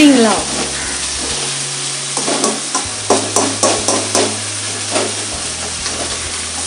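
Onions frying in oil in a large metal kadai, a steady sizzle, with a perforated metal ladle scraping and knocking against the pan several times from about two to five seconds in. The onions are being sautéed until soft and golden.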